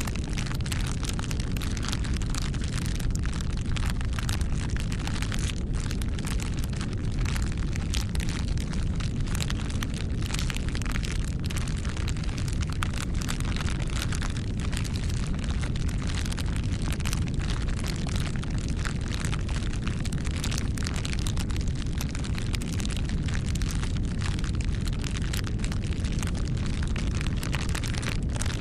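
Wood fire crackling: a steady low rumble of burning with many small, irregular pops and snaps throughout.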